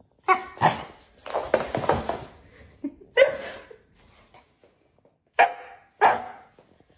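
A dog barking: about six short barks in uneven groups, with gaps between them.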